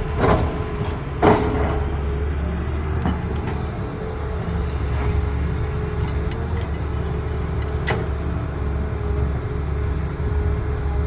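Heavy diesel engine of excavating machinery running steadily at a constant pitch. Two sharp clanks come in the first second and a half, and another about eight seconds in.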